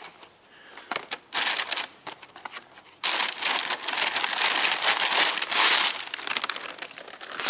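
Crinkly plastic packaging rustling and crackling as it is handled, in short patches at first and then continuously and louder from about three seconds in.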